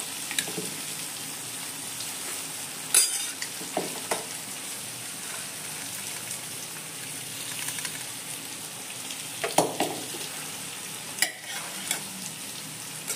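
Spiced tomato curry base sizzling steadily in a stainless steel pan as whole mung beans are poured in from a steel container, with a few sharp metal knocks of the container and spoon against the pan, the loudest about three seconds in and near the ten-second mark.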